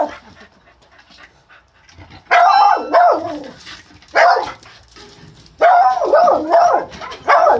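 A rescued feral dog barking in four loud bursts with a wavering pitch, the first starting about two seconds in.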